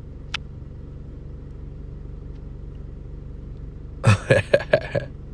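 A steady low hum, with a single sharp click about a third of a second in, then a brief snatch of a voice about four seconds in.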